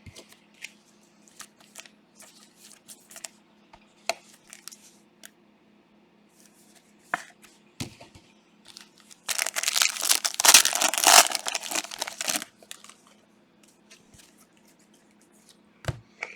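Light clicks and taps of trading cards being handled, then about three seconds of loud crinkly tearing from about nine seconds in: a foil trading-card pack being ripped open.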